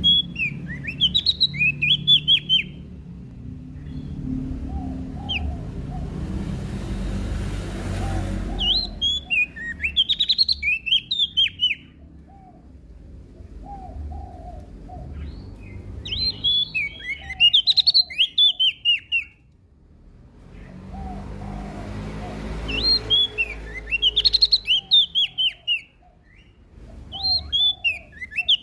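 A prenjak daun (leaf warbler) singing in bursts of rapid, high, falling chirps, each burst two to three seconds long, repeated about five times with short pauses between. Softer, lower notes fall in the gaps, over a low background rumble.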